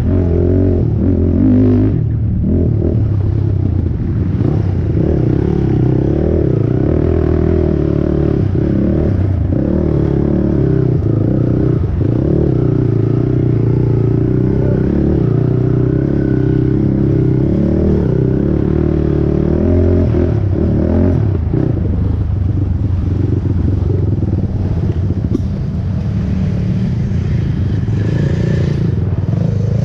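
Honda TRX450R quad's single-cylinder four-stroke engine running hard under race load, its pitch rising and falling as the throttle opens and closes.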